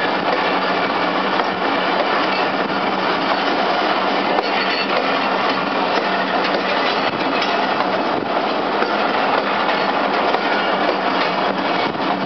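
Passenger coaches of a moving train rolling past close by, a steady rushing of wheels on the rails.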